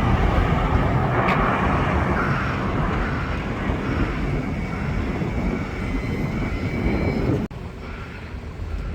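Steady engine roar from a passing vehicle, with no clear pitch to it, cut off abruptly about seven and a half seconds in and followed by quieter engine noise.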